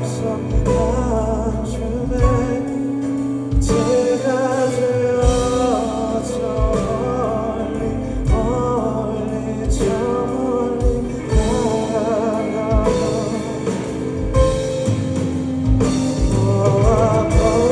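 Live band playing a slow ballad with a male vocalist singing over sustained chords, a drum hit marking the beat about every one and a half seconds.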